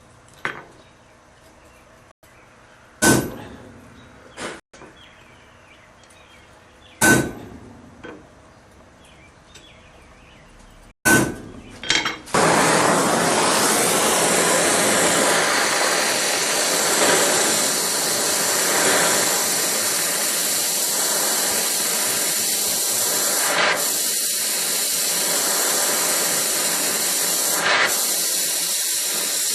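Several sharp metal strikes a few seconds apart, some with a short ringing note, likely a hammer on metal at the anvil. From about twelve seconds in, a steady, loud hissing rush takes over.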